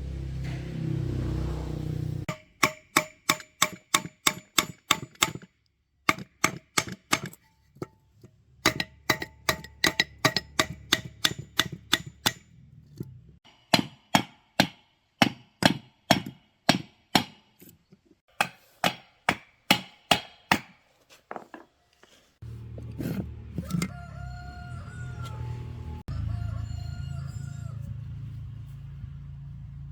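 Metal being struck over and over with a hammer in runs of about four blows a second, each blow ringing. Near the end the striking gives way to a steady low hum.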